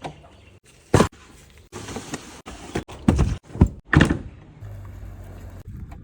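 A series of heavy knocks and thuds, four loud ones within about three seconds, with rustling noise between and a steady low hum near the end.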